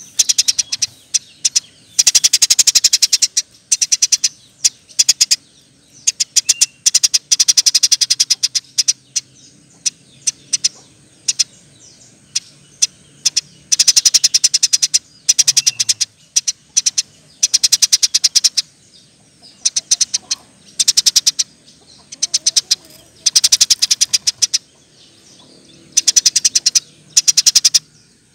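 Eurasian tree sparrow chattering in loud, rapid-fire bursts of sharp, high chips, each burst a second or two long, repeated every few seconds.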